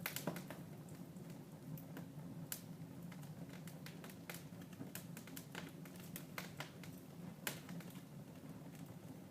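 Wood fire in a fireplace crackling, with irregular sharp snaps and pops over a low steady hum.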